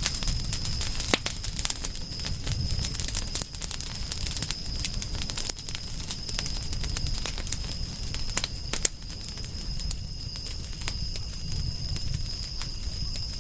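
Campfire crackling, with many sharp pops over a low steady rumble of burning; the loudest pops come about a second in, near three and a half seconds, and near nine seconds. A thin steady high tone runs underneath.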